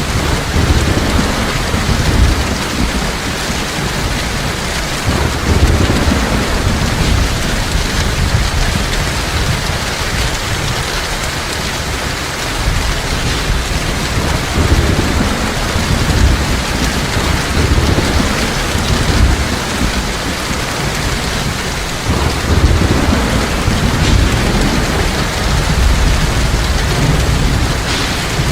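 Heavy rain falling steadily, with low rolling rumbles of thunder swelling and fading several times.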